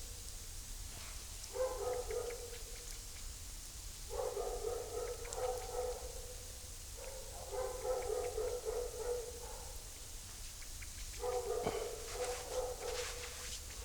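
A dog whining in four long, steady, high-pitched notes of about two seconds each, with short gaps between them.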